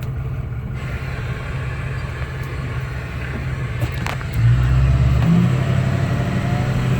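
Ford F-350's 6.0-litre Power Stroke V8 diesel running with a steady low rumble. It grows louder about four and a half seconds in as the engine picks up revs.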